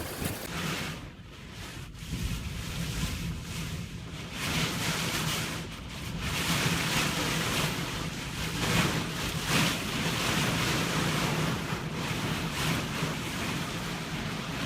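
Storm wind gusting hard across the microphone, with a rushing sound like surf or driven water, swelling and easing every few seconds over a low steady hum.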